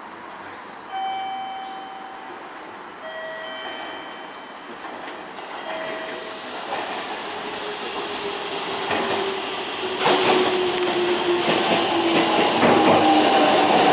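Four-car electric train pulling into the platform and braking: its rumble on the rails grows from about halfway and jumps louder about ten seconds in, with a motor whine that falls steadily in pitch as it slows. Before that, a few short electronic tones sound.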